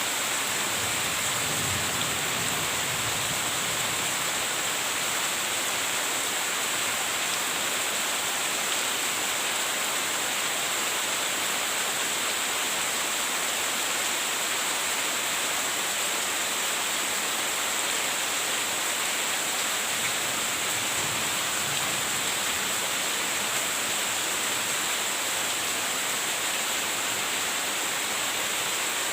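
Steady rain, an even hiss that does not change or break.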